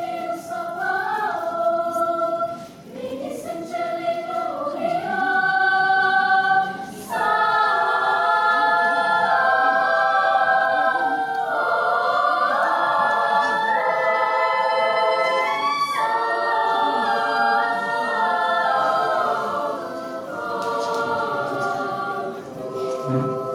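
Children's and youth church choir singing in harmony: several voices together, with held notes that move in steps from chord to chord and a brief break about seven seconds in.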